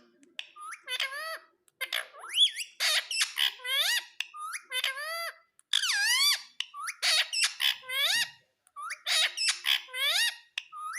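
A pet green parrot calling in a rapid series of short squawks and squeaky chirps, many with a quick rising-then-falling pitch, with brief pauses between bursts.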